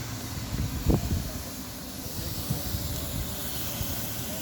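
Car wash spray wand hissing steadily as it sprays, with a low rumble underneath and a single thump about a second in.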